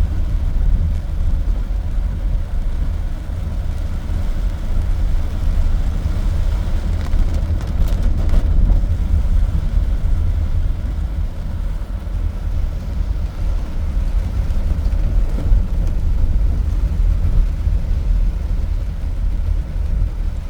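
Steady low rumble of a car driving on wet, flooded road, heard from inside the car, with a couple of faint knocks about eight seconds in.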